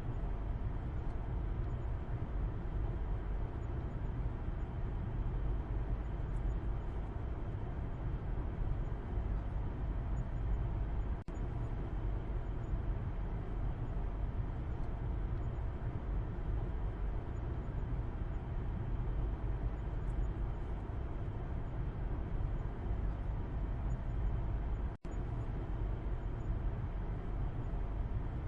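Steady low rumble of car road noise heard from inside the cabin, from the back seat. It cuts out for an instant twice, about eleven seconds in and near the end.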